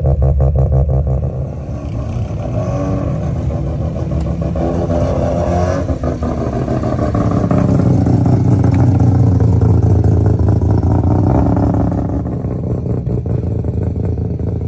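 Car engine idling with an even pulse, then revving and pulling away with a deep low rumble that builds and eases off.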